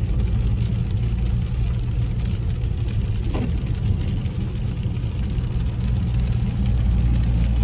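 Car driving along a rain-wet street, heard from inside the cabin: a steady low rumble of engine and tyres.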